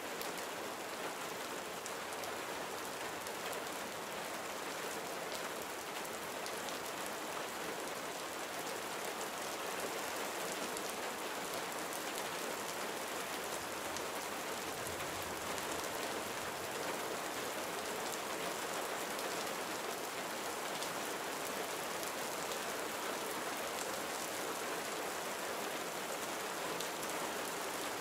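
Gentle rain falling steadily, an even patter with fine scattered drop ticks.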